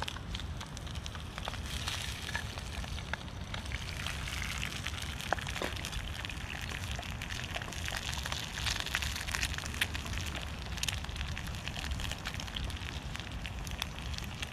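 Wood fire crackling in a Firebox wood-burning stove: many sharp, irregular pops and snaps over a steady hiss.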